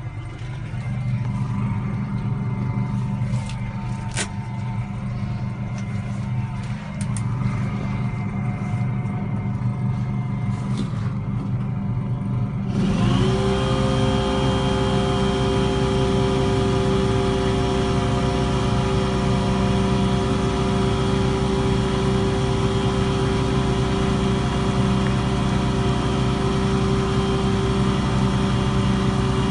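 An engine runs steadily at idle. About thirteen seconds in, a second motor-driven machine starts up, its pitch rising quickly, then runs on at a steady pitch, louder than the engine alone.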